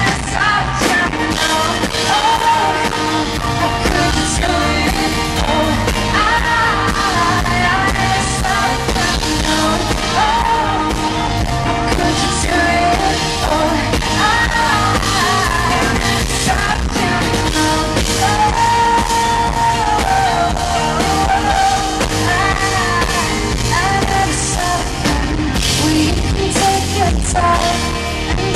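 Live rock band playing, with a female lead vocal singing over guitars, bass and drums.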